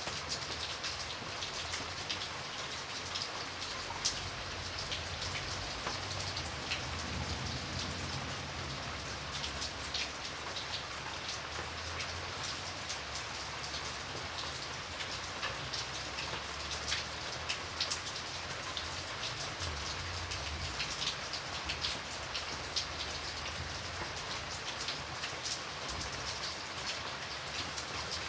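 Steady rain falling, with many individual drops ticking sharply close by over an even hiss, and a faint low rumble underneath.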